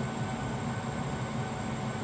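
Zanussi DL22 washing machine running a 90 °C boil wash: a steady low rumble with a faint high whine.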